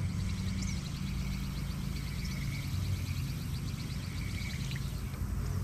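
A faint chorus of rapid, repeated chirping calls over a steady low hum.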